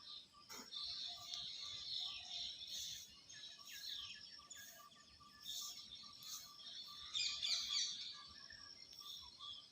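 Birds chirping, many short high calls overlapping in a busy chatter, most dense about seven to eight seconds in.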